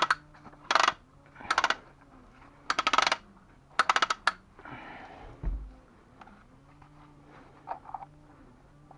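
Five short bursts of rapid clicking in the first four and a half seconds, then a rustle and a dull low thump about five and a half seconds in, with a few faint clicks after.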